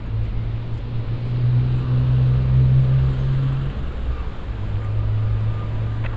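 Low hum of a motor vehicle engine close by, growing louder about a second in, easing off near four seconds, then rising again, over steady city street noise.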